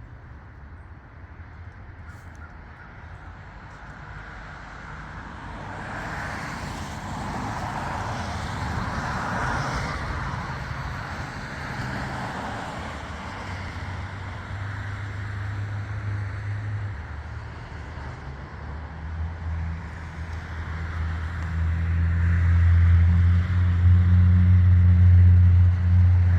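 Many birds calling at once as a large flock flies past, loudest in the first half. About halfway through, a steady low engine hum comes in and grows much louder toward the end, drowning out the birds.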